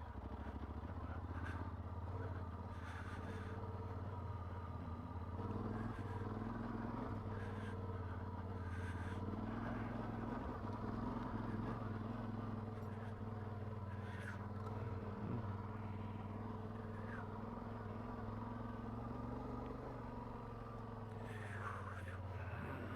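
Motorcycle engine running steadily while being ridden, with a constant low rumble and a few brief faint noises over it.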